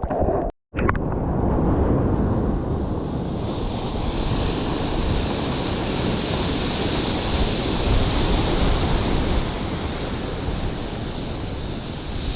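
Ocean surf washing steadily with wind buffeting the action camera's microphone, cut off for a moment by a brief dropout about half a second in.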